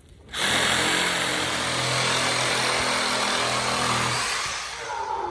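A motor-driven machine running loudly at a steady speed, a low hum under a strong rushing hiss. It starts abruptly, then cuts back and dies away about four seconds later.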